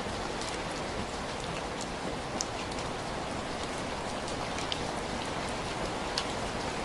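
Steady rain with scattered sharp ticks at irregular moments, some a second or more apart.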